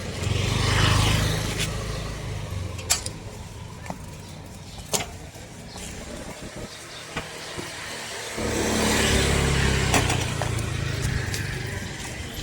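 Two motor vehicles pass close by one after the other, the first about a second in and the second about eight seconds in, each a low engine hum with road noise that swells and fades. A few sharp clicks fall between them.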